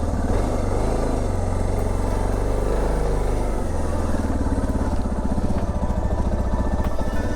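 Motorcycle engine running on choke just after a cold start, warming up. Its firing is steady, with a change in pitch about halfway through.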